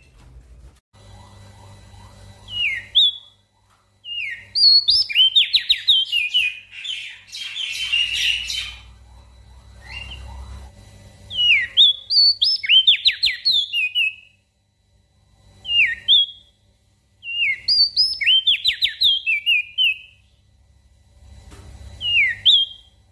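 Crested white-eye (opior jambul) singing in repeated phrases of quick whistled notes that slide up and down, the phrases coming every few seconds with short pauses between. One phrase carries a harsh buzzy passage in its middle. A faint low hum lies underneath.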